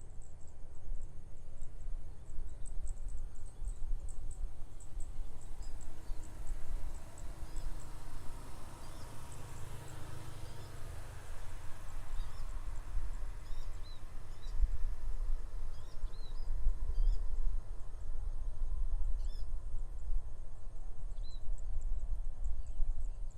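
Rice-field morning ambience: wind rumbling on the microphone with a gust swelling near the middle, a steady high insect buzz, and scattered short bird chirps, more of them in the second half.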